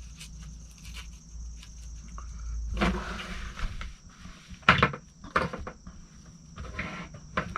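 Handling noise of a nylon range bag and the gear in it: rustles and a few sharp clicks and knocks, the sharpest a little before five seconds in. A steady high-pitched tone runs underneath.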